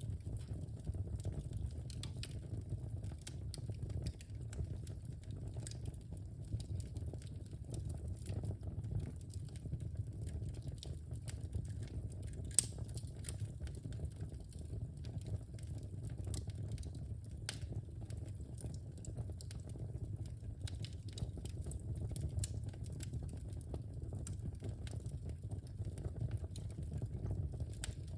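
Wood fire burning in a fireplace: a steady low rumble of flames with scattered small crackles and snaps, and one sharper pop about halfway through.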